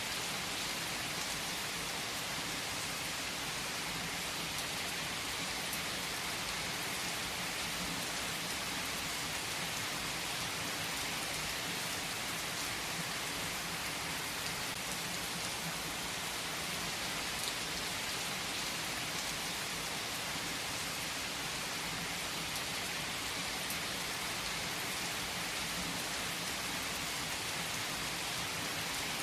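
Steady rain falling, an even hiss with the odd single drop standing out.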